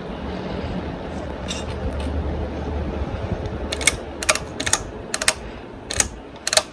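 Hunter Low Profile II ceiling fan running, a steady low whoosh of moving air that fades toward the end. About four seconds in come a handful of sharp, irregular clicks.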